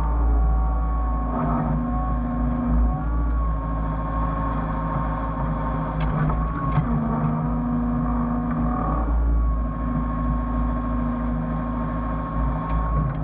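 Hyundai excavator's diesel engine running steadily with a high, even whine over it, the engine note growing louder twice as the machine works. A couple of sharp clicks about six seconds in.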